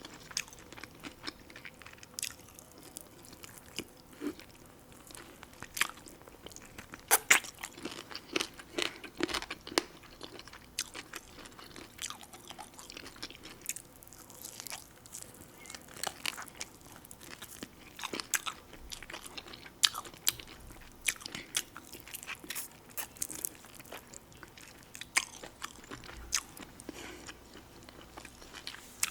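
A person eating close to the microphone: irregular crunching, biting and chewing, with sharp clicks and smacks scattered unevenly through it.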